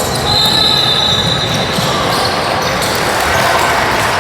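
Basketball game sounds in a gymnasium: a ball bouncing on the court over a steady din of voices and movement, with a high steady tone lasting about a second and a half near the start.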